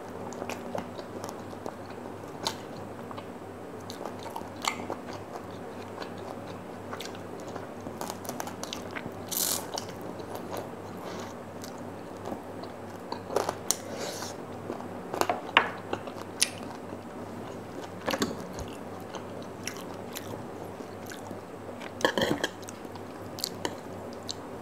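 Close-up chewing and biting of spicy glazed fried chicken: wet mouth clicks and crunches, with several louder crunchy bites spread through, over a steady low hum.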